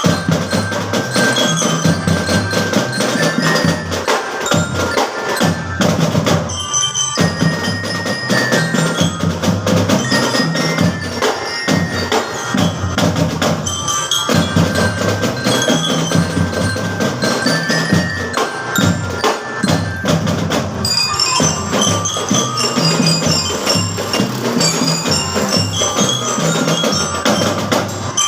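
A school drum band playing: snare, tenor and bass drums keep up a steady beat while bell lyres (marching glockenspiels) carry the tune in ringing high notes.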